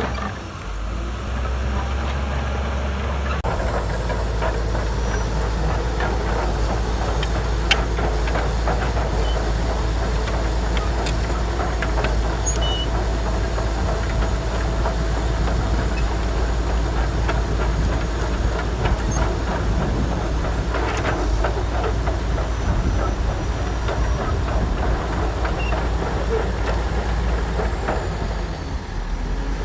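Shantui DH17C2 crawler bulldozer working: its diesel engine running steadily under load with the metallic clatter and squeal of its steel tracks.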